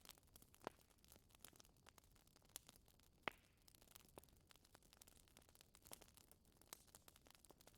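Wood fire in a fireplace crackling faintly: scattered, irregular small pops and snaps over a soft hiss, the sharpest pop a little over three seconds in.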